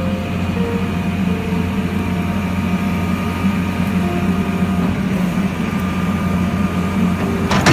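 Excavator's diesel engine running steadily, with a deep hum and a few short higher tones over it. A burst of clatter comes near the end.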